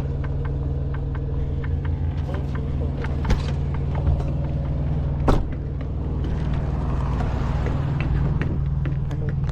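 An engine running steadily at idle, with a couple of sharp knocks, one about three seconds in and a louder one a little past five seconds.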